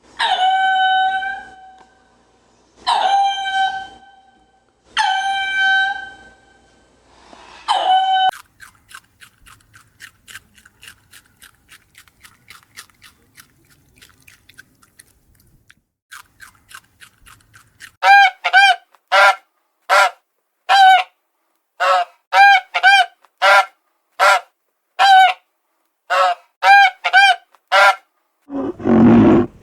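Farm birds calling: four long calls about two seconds apart, then a stretch of faint rapid ticking, then a run of short, loud repeated calls, several a second.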